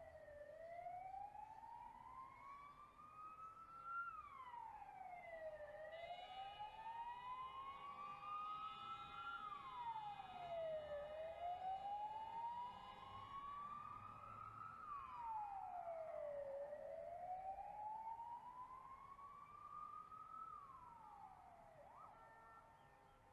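Emergency vehicle siren in wail mode, slowly rising in pitch and then falling more quickly, repeating about every five and a half seconds. A steady higher tone joins it about six seconds in, and the siren fades toward the end.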